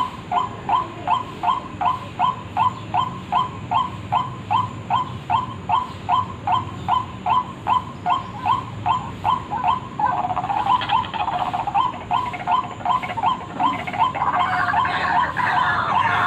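White-breasted waterhen calling: a steady series of short, repeated calls, about three a second. About ten seconds in the calls thicken and overlap, and near the end a denser, faster chattering chorus joins them.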